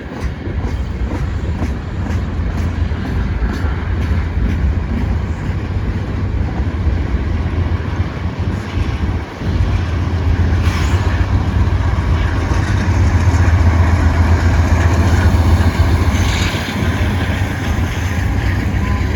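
Freight train cars rolling past with a steady heavy rumble. Wheels click in an even rhythm over the rail joints for the first few seconds, and there are louder clanks and rattles about ten seconds in and again near the end.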